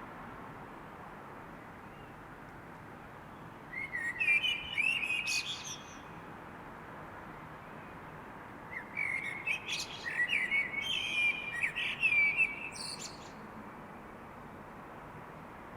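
A songbird singing: a short warbling phrase about four seconds in, then a longer phrase of about four seconds near the middle, over a steady faint hiss.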